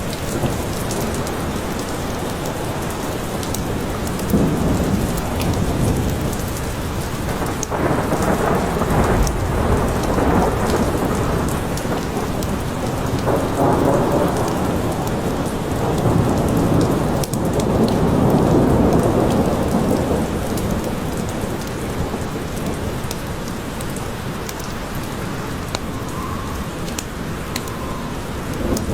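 Steady forest rain, with low rolls of thunder swelling and fading several times.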